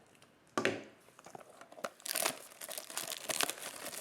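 Plastic shrink-wrap crinkling and tearing as a sealed trading-card blaster box is unwrapped, with a single knock a little after the start.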